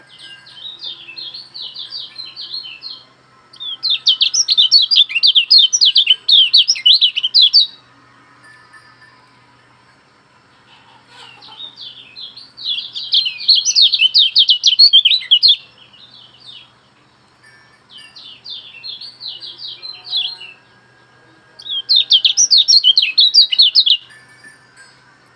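A songbird singing a loud, fast twittering song of rapid high notes. It comes in five phrases of a few seconds each, with short pauses between them. Underneath is a faint steady low hum.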